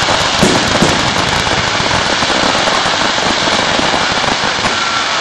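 Fireworks barrage: many shells and fountains going off at once in a dense, continuous crackle, with a couple of louder pops in the first second.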